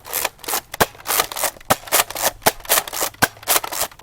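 Nerf Sling Fire lever-action blaster being slam-fired: the lever is worked rapidly with the trigger held, giving a quick run of plastic clacks and dart shots, about three to four a second.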